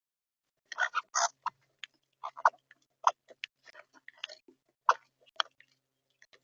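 Birds pecking at seed on a feeder tray close to the microphone: irregular sharp clicks and taps, starting about a second in.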